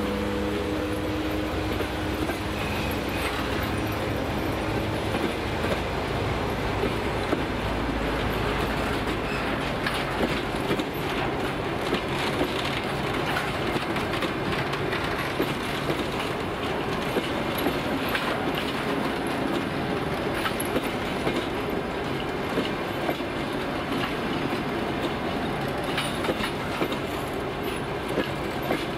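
Passenger train coaches rolling past at speed: a steady rumble of steel wheels on rails, with frequent clicks and knocks as the wheels cross rail joints.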